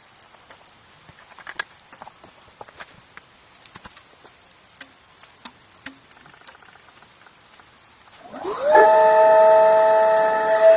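Sparse light ticks and taps, then about eight seconds in a kettle whistle starts, its pitch rising quickly before it settles into a loud, steady whistle of several tones.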